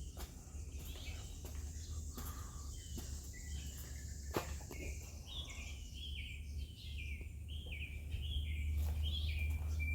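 A songbird singing a run of short, quickly repeated chirps, about two to three a second, starting about five seconds in and ending on a held note, over a faint steady low rumble and a few clicks.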